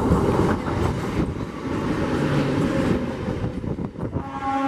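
Indian Railways EMU local train passing close at speed, with a steady rumble and wheels clacking over rail joints. A train horn begins to sound about four seconds in.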